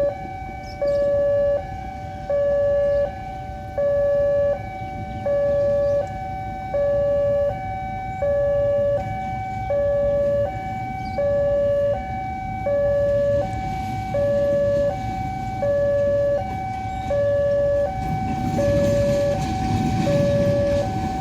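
Electronic railway level-crossing warning alarm sounding a steady two-tone high-low signal, each tone lasting about three-quarters of a second: the crossing is closed for an approaching train. Near the end the low rumble of the train grows underneath.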